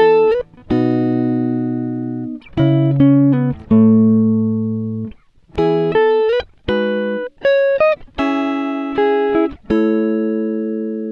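Background music: plucked guitar chords struck one after another, each ringing out and fading, with a few short slides up in pitch between notes.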